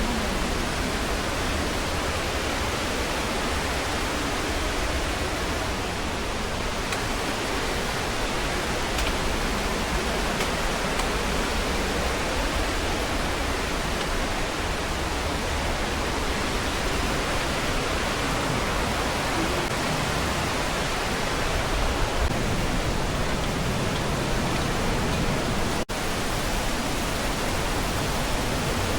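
Steady rushing water of a rocky mountain valley's stream and waterfalls, an even unbroken hiss.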